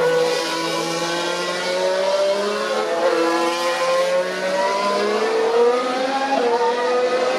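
Several Formula 1 cars' 1.6-litre turbocharged V6 hybrid engines running together at racing speed, their pitches rising and falling as they accelerate, shift and lift.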